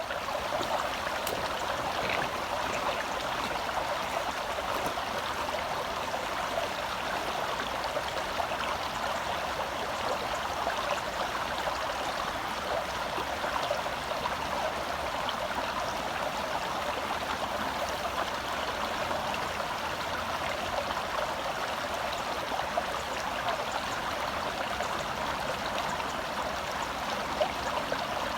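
Gentle forest stream flowing steadily, a continuous burble of running water.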